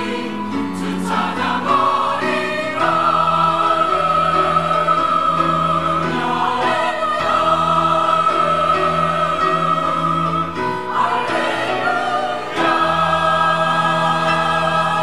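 Church choir singing in harmony, holding long sustained chords with vibrato, with a short break in the chord about eleven seconds in before another long held chord.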